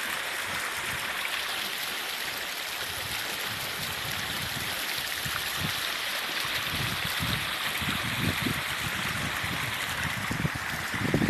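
Monsoon hill stream babbling over rocks: a steady rush of flowing water. A few low thumps come in the second half, the loudest right at the end.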